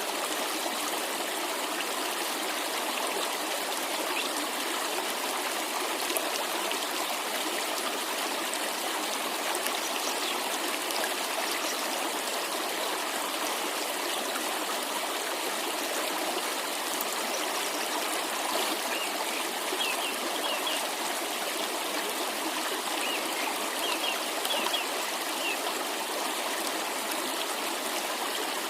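Water of a cascade rushing steadily over rocks. A few short bird chirps come in about two-thirds of the way through.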